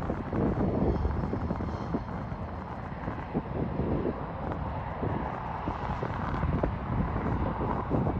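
Airliner jet engine noise, a steady rumble with a faint high whine, mixed with wind buffeting the microphone.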